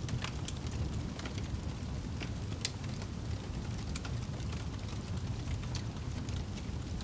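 Fire in a fireplace crackling, with irregular sharp pops and snaps over a steady low rumble.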